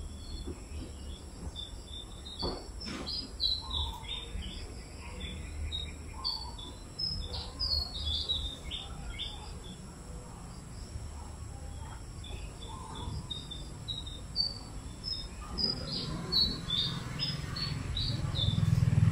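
Birds chirping in many short high calls over a steady drone of insects and a low hum. Near the end a low rumble grows louder and becomes the loudest sound.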